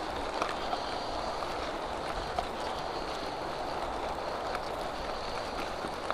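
Steady rolling noise of an e-bike ridden at speed: tyres running and air rushing past, with a few light ticks.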